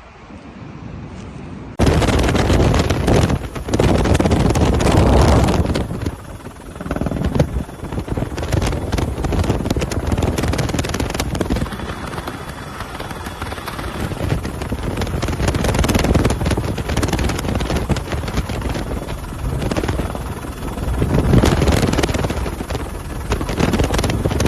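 Loud rushing roar that cuts in abruptly about two seconds in, then swells and fades in gusts.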